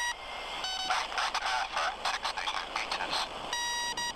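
Handheld radio relaying the robot boat's telemetry: a buzzy beep, a short lower beep about half a second in, then a muffled voice report through radio hiss, and another buzzy beep near the end.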